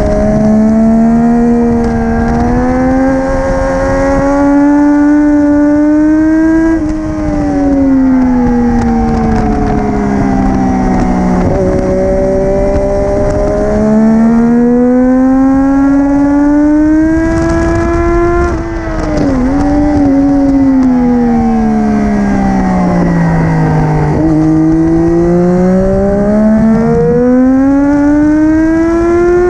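Triumph Daytona 675R's three-cylinder engine at high revs through an Arrow titanium full-system race exhaust, ridden hard on a race track. The pitch climbs under acceleration and falls away when braking and changing gear, with a quick dip and throttle blips during a downshift about two-thirds of the way through.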